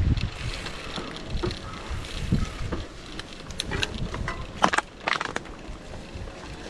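Bicycle rolling over rough, uneven ground: the frame and drivetrain rattle, with a few sharp clicks and knocks just before five seconds in.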